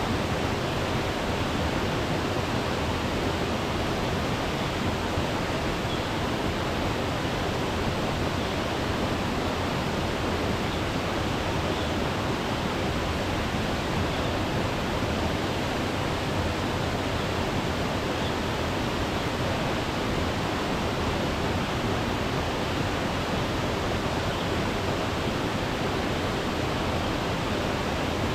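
Tall waterfall falling, a steady even rushing of water.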